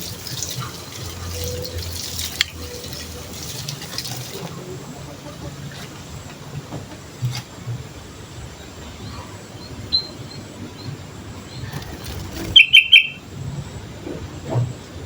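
Sooty-headed bulbul calling: a quick burst of three short, loud, high notes about three-quarters of the way through, with a few faint notes earlier, over a steady background hiss.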